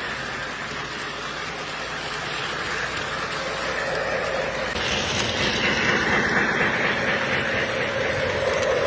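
O gauge model train running on track: a steady rattling of wheels on rail and running gear, louder from about five seconds in.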